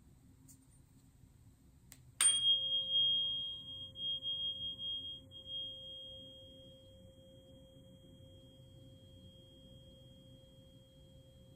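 Tuning fork struck once about two seconds in, ringing a steady pure tone with a much higher overtone; the ring is strong for a few seconds, wavers in loudness, then fades to a faint lingering tone.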